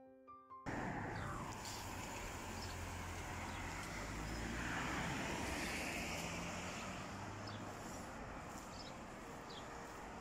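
Piano music cuts off less than a second in, giving way to outdoor wind and road noise, with a vehicle passing and at its loudest about halfway.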